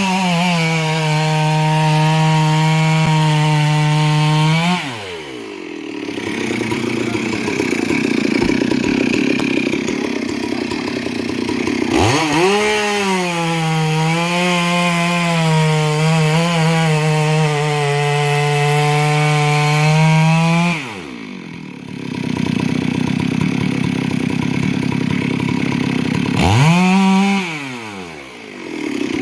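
A two-stroke chainsaw cutting wood. The engine runs at high speed for several seconds at a time, wavering under load, and twice drops into a rougher, lower sound between runs. A short rev comes near the end.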